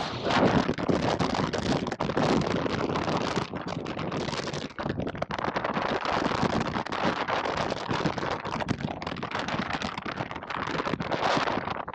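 Strong wind buffeting the microphone, a harsh rushing noise that rises and falls, full of crackle.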